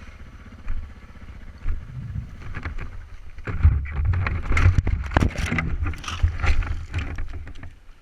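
Onboard sound of a Suzuki DR650 single-cylinder dual-sport motorcycle on a rough dirt track: a low engine rumble with wind on the microphone and a string of knocks and rattles from the bumps, growing louder and busier about halfway through.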